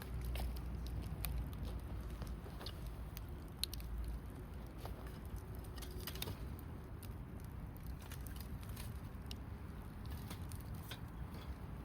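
Wood fire crackling, with irregular small pops and snaps and one sharper pop about three and a half seconds in, over a low steady rumble.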